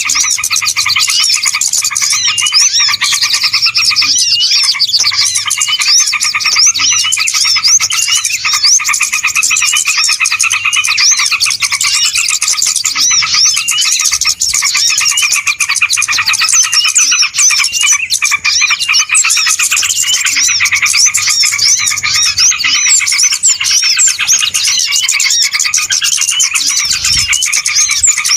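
A dense, unbroken chorus of many small birds chirping and twittering over one another, loud and busy, as in a noisy bird-lure (pikat) recording.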